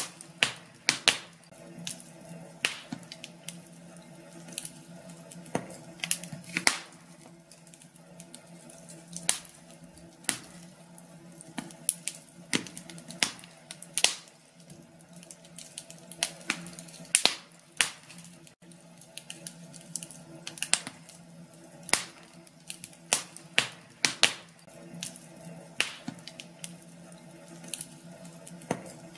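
Fireplace fire crackling: irregular sharp pops, some much louder than others, over a faint steady low background.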